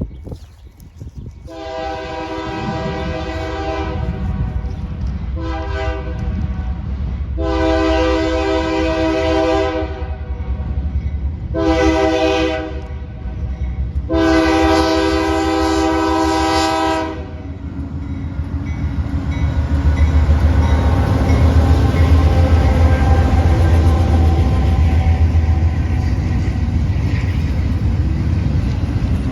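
A CSX freight locomotive's multi-chime air horn blows five blasts: long, short, long, short, long. Then the train goes by at speed with a steady, loud rumble from its engines and wheels on the rails.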